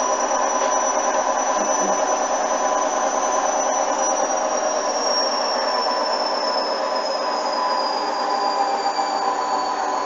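Hoover washing machine's motor and drum running with a steady hum and a high whine that slowly falls in pitch as the drum slows.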